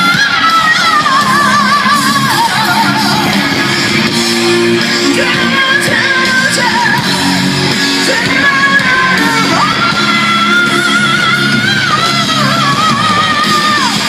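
Live rock band playing in a large hall, with a high lead line, most likely an electric guitar solo, held with wide vibrato and bent up and down over the band.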